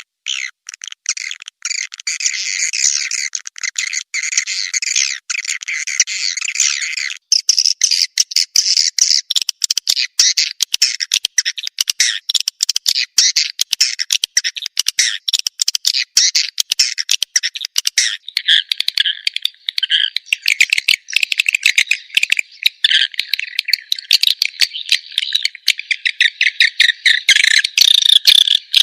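Recorded edible-nest swiftlet calls played as a lure sound to draw swiftlets in to roost: a dense, unbroken stream of rapid high chirps and twittering. The pattern changes abruptly about seven seconds in and shifts lower around eighteen seconds in.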